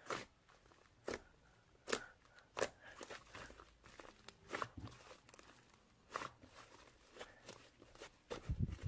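Fluffy slime being squeezed and poked by hand, giving irregular soft crackles and pops. Low thuds near the end.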